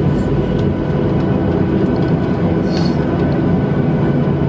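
Boeing 737-700 jet noise heard from inside the cabin: the CFM56 turbofans running loud and steady over a rumble from the airframe, with a few steady tones through it.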